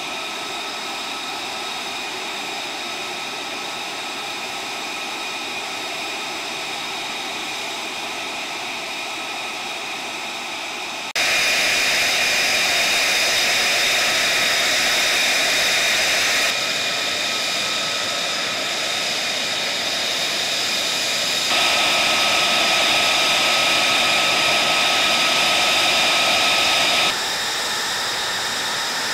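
F-35A fighter jet's single F135 turbofan engine running with a steady high whine over a loud roar. The loudness jumps up and down abruptly several times, about 11, 16, 21 and 27 seconds in.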